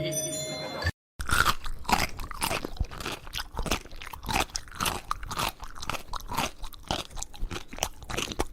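Close, crunchy chewing, with many irregular crunches a second, starting just after a brief silent cut about a second in.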